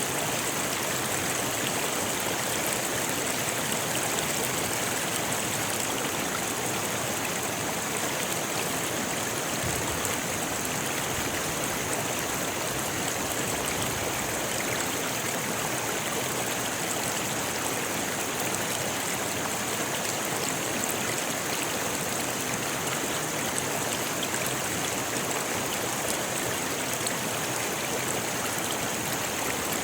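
River water rushing and splashing over rocks in a steady, unbroken hiss.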